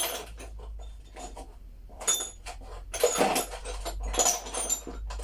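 Irregular metal clinks and knocks of tools as a bearing puller is set up on a washing machine tub to press out the drum bearings, with a low hum underneath.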